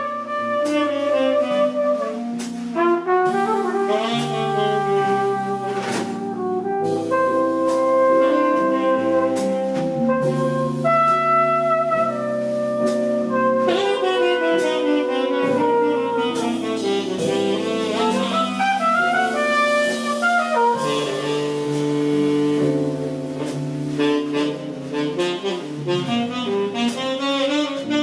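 Jazz ballad with a saxophone carrying the melody over sustained chords and a walking bass line.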